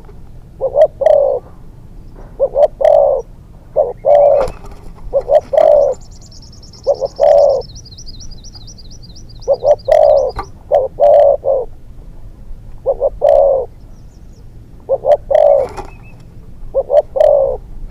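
Spotted dove cooing over and over in short phrases of two or three notes, a second or two apart. A small bird's fast, high trill runs over it for about four seconds in the middle.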